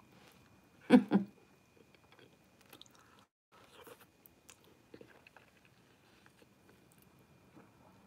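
A person chewing a mouthful of stir-fried noodles, with soft wet mouth clicks and smacks. About a second in there is a short, louder sound in two quick parts from the mouth.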